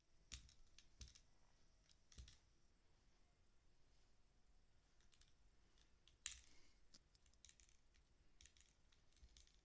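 Faint, irregular light clicks and taps of a cockatiel playing with a pair of glasses, the sharpest about six seconds in, over a quiet room.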